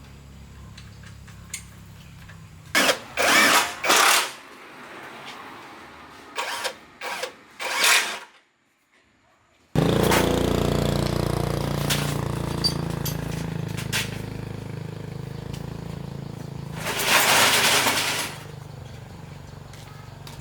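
Restored Hyosung motorbike's small engine running, with several short loud bursts. The sound drops out briefly past the middle, then the engine is heard running steadily, with another loud burst near the end.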